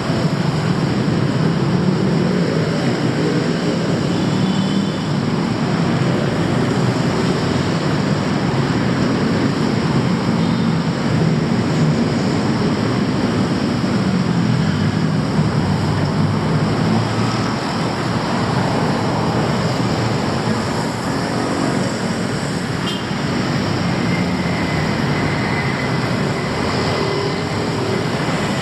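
Steady city traffic noise: a continuous mix of vehicle engines running, with no single event standing out.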